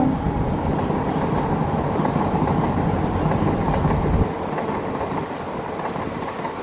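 Diesel-hauled train running past with engine rumble and rolling wheel noise. The deep rumble drops away suddenly about four seconds in, and the lighter rail noise carries on.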